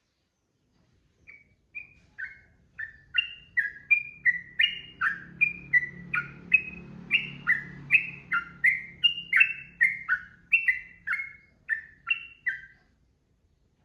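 Sooty-headed bulbul (trucukan) singing a long unbroken run of short falling notes, about two a second, starting about a second in.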